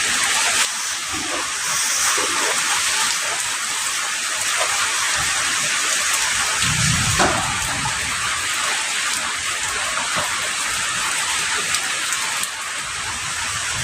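Heavy rain falling steadily as a dense hiss of drops, with a brief low rumble about seven seconds in.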